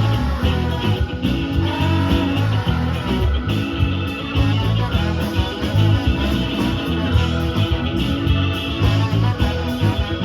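Live rock band playing an instrumental passage, led by guitar.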